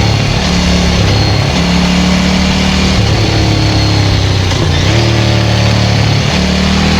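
Ducati 900SL's air-cooled 900 cc L-twin running through a Termignoni full exhaust, its pitch shifting up and down a few times as the throttle changes.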